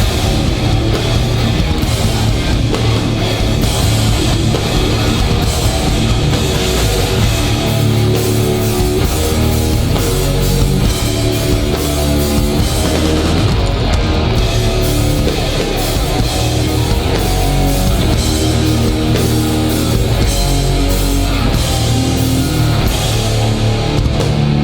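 Hardcore band playing live: loud distorted electric guitars, bass and a pounding drum kit in a fast, heavy song.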